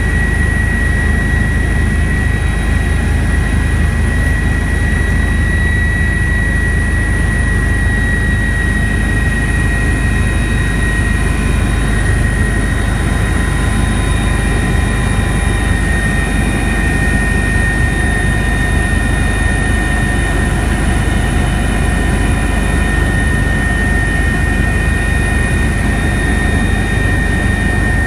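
Army helicopter in flight, heard from inside the cabin: a loud, steady low rotor rumble with a constant turbine whine over it.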